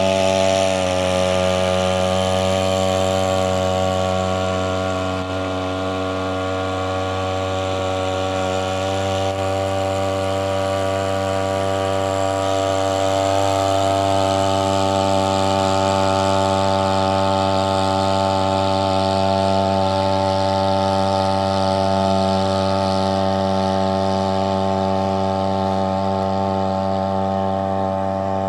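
Homemade outboard boat motor built on a Chinese brush-cutter engine, running at a steady speed without a break.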